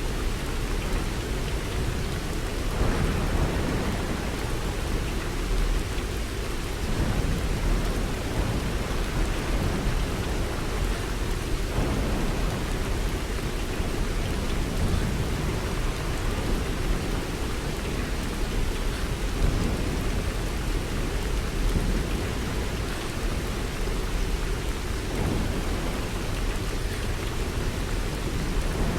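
Steady rain falling, with a constant deep rumble underneath.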